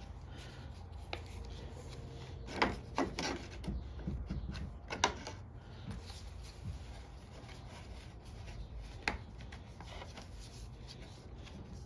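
Handling sounds of a new air filter being fitted into a lawn mower's air cleaner housing: rubbing and scraping of the filter parts, with a few sharp light clicks and knocks.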